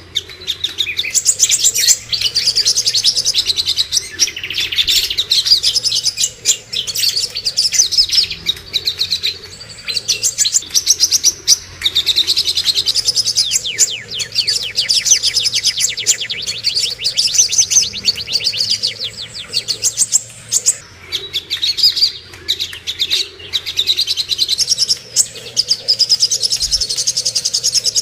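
Cucak kombo and songok birdsong: near-continuous fast, chattering trills and rapid runs of repeated high notes with brief pauses, a masteran recording for coaxing silent caged songbirds into singing.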